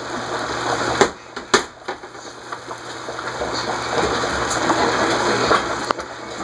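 A pot of shrimp and broccoli in butter cooking on the stove, giving a steady hiss, with two sharp clacks about a second and a half in.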